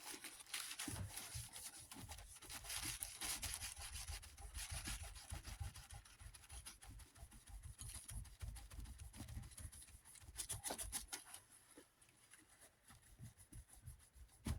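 Paper towel rubbing back and forth over the painted metal of a desk fan's base, scrubbing off permanent marker, in quick irregular strokes; the rubbing eases off for a few seconds near the end.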